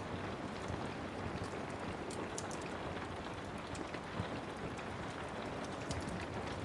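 Steady rain, with scattered sharp crackles of a wood fire.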